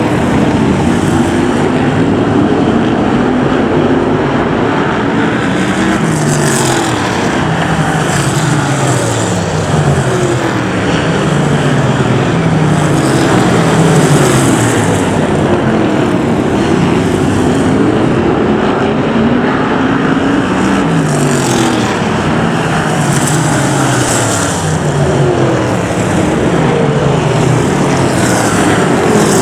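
A pack of BriSCA F1 stock cars racing, their V8 engines running loud together. The engine notes of several cars rise and fall over and over as they accelerate and lift off.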